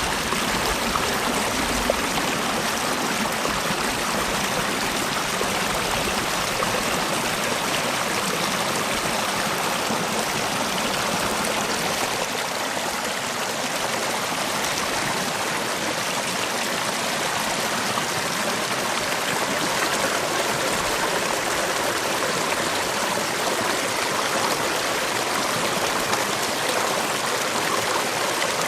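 Mountain valley stream flowing steadily: an even, unbroken rush of water.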